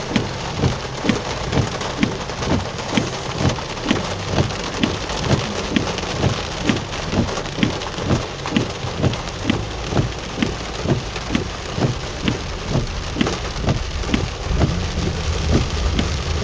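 Heavy rain pouring down, with a regular knock about twice a second running through it.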